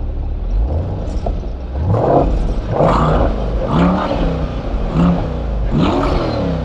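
2024 Chevrolet C8 Corvette's 6.2-litre LT2 V8 through its stock exhaust in Sport mode, revved from idle in about six quick throttle blips. Each rev rises and falls back; the first is small, and the five that follow from about two seconds in are bigger and louder.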